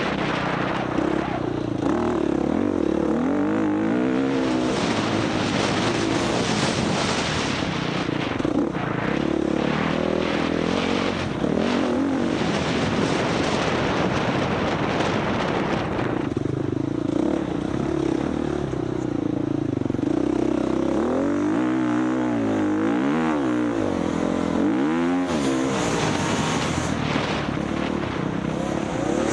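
Husqvarna FX 350 four-stroke single-cylinder off-road motorcycle engine being ridden hard, its pitch rising and falling over and over with throttle and gear changes. A steady rushing noise runs under it.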